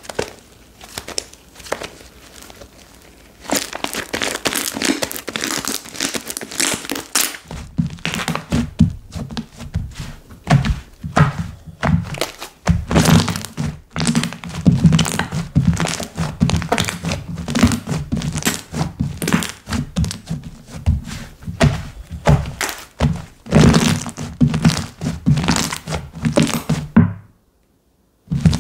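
Hands squishing, stretching and poking slime, with rapid crackling pops and soft thuds. It is quieter for the first few seconds, grows louder and busier about seven seconds in, and breaks off briefly near the end.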